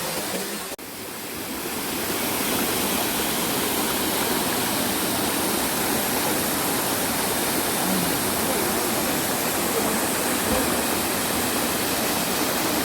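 Waterfall: a steady rush of falling water, dipping briefly about a second in and then steady again.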